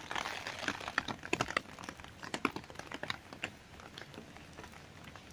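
Rain falling, the drops tapping irregularly on an umbrella overhead over a light hiss of rain.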